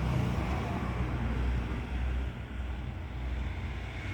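Low rumble of wind buffeting the microphone, steady, easing briefly about two seconds in.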